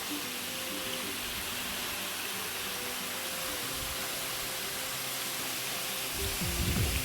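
Steady rushing of water from a waterfall and the stream it feeds. Faint held musical tones run underneath, and louder low sounds come in near the end.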